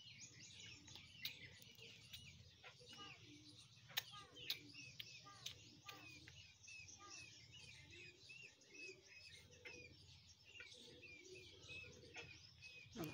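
Faint chirping of small birds: many short, quick chirps repeating throughout, with a sharp click about four seconds in.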